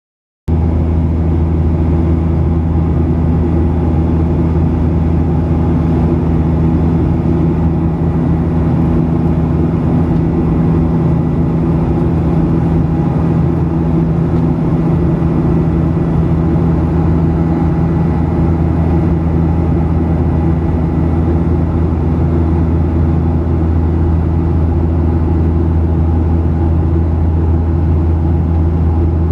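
Steady drone of an airliner cabin in cruise flight: jet engine and airflow noise heard from inside the cabin, a low hum with a few steady tones, unchanging throughout.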